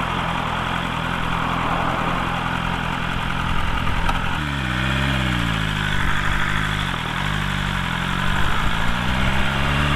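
BMW S1000RR's inline-four engine idling steadily in neutral; about four and a half seconds in the revs dip and waver as the clutch takes up and the bike pulls away in first gear, then the engine note rises steadily as it accelerates.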